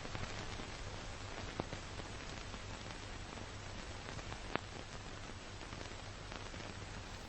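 Steady hiss with a low hum and a few sharp clicks, about two seconds and three seconds apart: the surface noise of an old film soundtrack.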